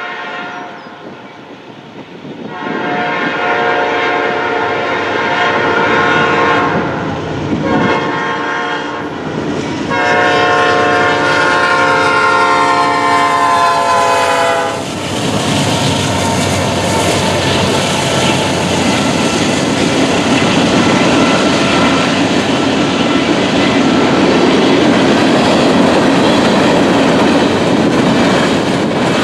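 Norfolk Southern diesel freight locomotive's air horn sounding for the grade crossing: a long blast, a short one and a final long blast that drops in pitch as the locomotive passes. Then the freight train rolls by loudly, wheels clicking over the rail joints.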